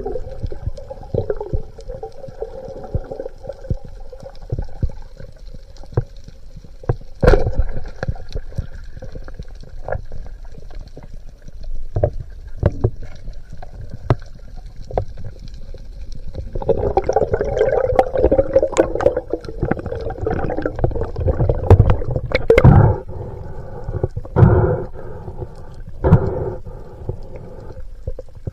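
Underwater sound through a diving camera: frequent sharp clicks and crackles with a faint steady hum. From about two-thirds of the way in there is a louder rushing stretch, then a few shorter bursts.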